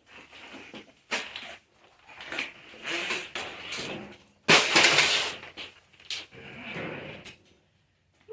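Irregular knocks, rustles and scrapes as a small fridge and its packaging are handled. The loudest part is a sharp scraping rush about four and a half seconds in, lasting under a second.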